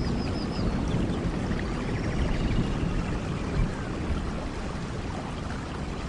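Steady rainfall in a rainforest: an even rushing hiss of rain over a deep low rumble, with a few faint high chirps about the first second.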